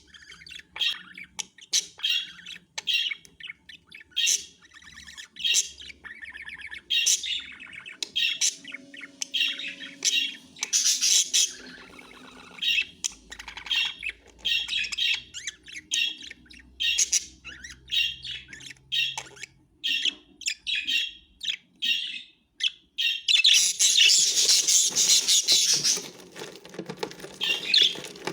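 Spangle budgerigars chirping and chattering in quick, short calls. The chatter grows denser and louder for a few seconds near the end.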